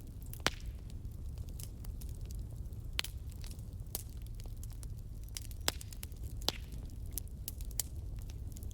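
Wood fire burning in a fireplace: a steady low rumble with constant crackling and a few sharper, louder pops.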